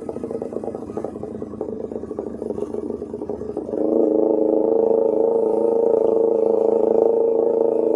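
Kawasaki Ninja 250R's carbureted parallel-twin running through a loud Austin Racing aftermarket exhaust. It first drops to low revs with a loping beat of separate exhaust pulses, then about four seconds in jumps abruptly back to a louder, steady running note.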